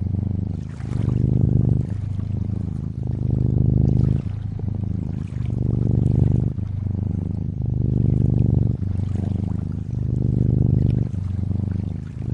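Cat purring close up, a low rumble that swells and eases in even cycles about once a second, with a faint trickle of water behind it.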